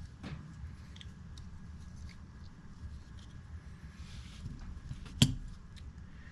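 Faint clicks and taps of small metal pocket-knife parts being handled and fitted together during reassembly, with one sharp click about five seconds in.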